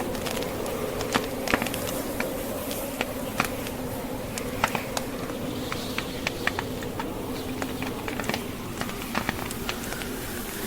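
Wood fire crackling in a fireplace, with sharp irregular pops and snaps over the steady droning howl of blizzard wind.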